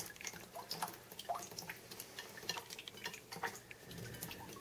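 Rainwater leaking in where a bay window meets the wall, dripping in quick, unevenly spaced drops, several a second.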